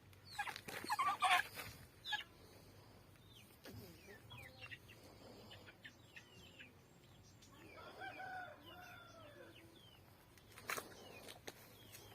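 Aseel chickens clucking and peeping, with short high chirps throughout and a loud burst of noise about a second in. About eight seconds in, a rooster crows once, a drawn-out call that rises and then falls.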